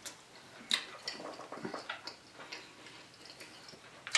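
Quiet close-miked chewing: irregular small wet mouth clicks and smacks, with one sharper click a little under a second in.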